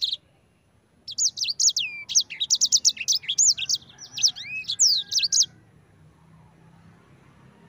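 A sanger songbird sings a fast, rolling song of high, curving chirps and whistled notes. The song starts about a second in and stops about two-thirds of the way through.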